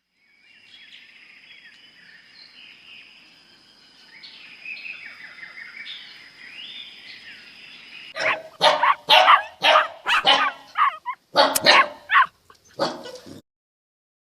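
Faint chirping with a steady high tone, then from about eight seconds in a run of about eight loud barks in quick succession from an animal.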